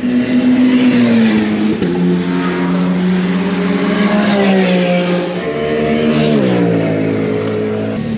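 Car engine running loudly under way, its note holding steady and then dropping in steps, once about two seconds in and again near the end, as the revs fall.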